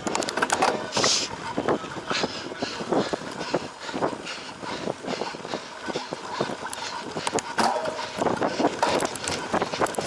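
Cyclocross bike rattling over rough ground at race pace: a dense, irregular clatter of knocks from the chain and frame, over the noise of the tyres on the dirt course.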